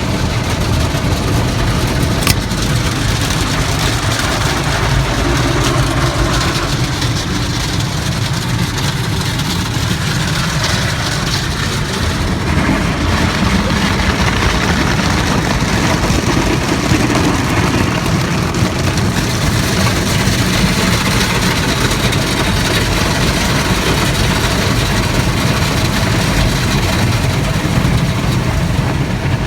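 Automatic drive-through car wash heard from inside the car's closed cabin: a steady, loud wash of water spray and scrubbing brushes on the body over a low machine rumble.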